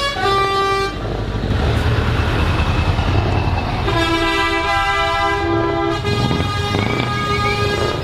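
Truck horns sounding over diesel engines: a short horn blast at the start, then the low rumble of the engines, then a second, longer blast on a lower note from about four to six seconds in.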